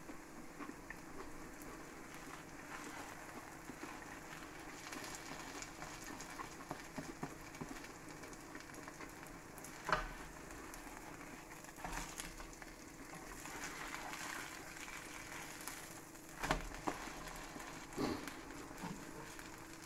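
Grated cheese frying in its own fat in a frying pan, a steady fizzing crackle. A metal fork and turner click and scrape against the pan about ten seconds in and a few more times near the end.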